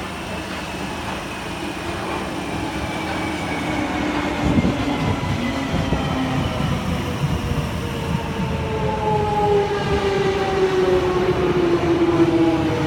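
London Underground 1996 Stock train's traction motor whine, several tones falling steadily in pitch and growing louder over wheel rumble as the train brakes into the platform.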